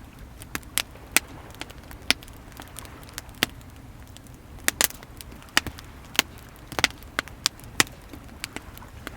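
Wood fire crackling, with irregular sharp pops, about two a second, some much louder than others, over a steady low wash of sea waves.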